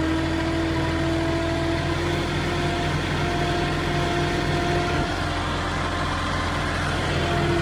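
Flatbed truck's diesel engine running steadily at low, even revs.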